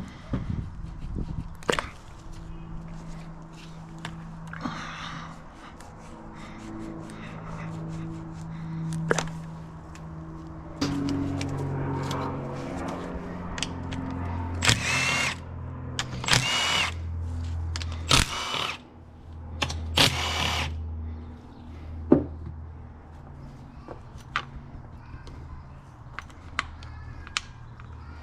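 Hand-held power tool running in several long stretches, its pitch stepping between runs, while unfastening parts during an engine teardown. It is loudest in a series of harsh bursts about halfway through, with sharp metallic clicks and knocks in between.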